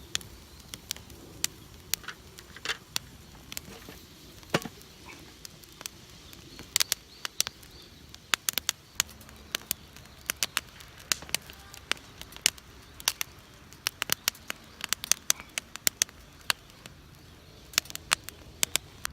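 Wood fire crackling, with many irregular sharp pops and snaps that come thicker in the second half.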